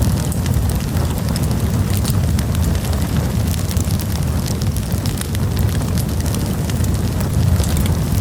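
Campfire burning, with a steady low rumble and frequent small crackles and pops.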